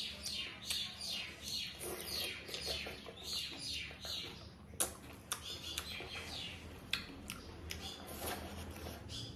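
Close-up, wet chewing and mouth sounds of someone eating rice, chicken and boiled egg by hand: a quick run of short smacks and squelches a few times a second, with a couple of sharper clicks about halfway through.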